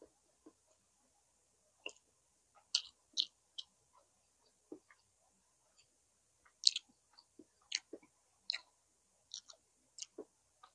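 Close-miked eating sounds: irregular wet smacks and clicks of a mouth chewing grilled chicken inasal, the loudest a little past the middle.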